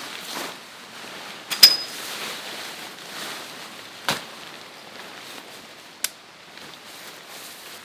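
Three sharp knocks of hard objects, the first and loudest about a second and a half in with a short high metallic ring, over a faint steady hiss.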